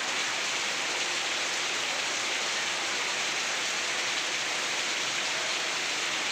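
Heavy rain falling steadily and splashing on the ground, a dense even hiss.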